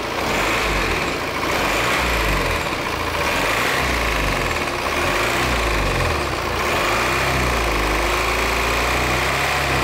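Volvo XC90's four-cylinder diesel engine idling steadily with a repeated tapping ('tak-tak-tak') in it, a noise the mechanic suspects comes from a damaged crankshaft damper pulley or accessory-belt bearing.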